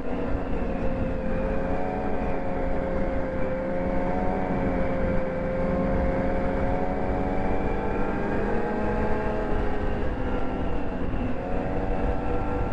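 Ski-Doo snowmobile engine running steadily while riding along a trail, its pitch drifting slightly down and back up as the throttle eases and opens.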